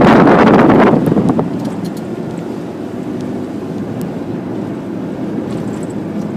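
Car on the move, with wind buffeting the microphone loudly for about the first second, then a quieter, steady rumble of road and engine.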